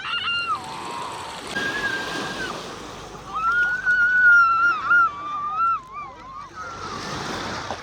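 Surf washing on the beach and water sloshing, with a high-pitched voice giving a short held squeal, then a longer wavering one of about three seconds in the middle.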